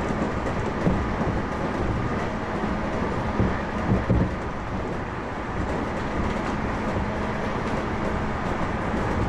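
Electric commuter train running along the track, a steady rumble with a few short louder knocks about a second in and again around three and a half to four seconds in.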